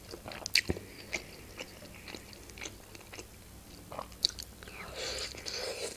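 Close-miked chewing of a khinkali dumpling: soft wet smacks and clicks of the mouth at irregular intervals, with a longer, noisier stretch near the end.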